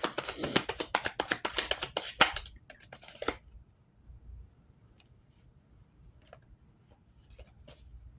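A deck of cards being shuffled, a fast run of crisp clicks for about two and a half seconds, then a handful of single card taps and flicks.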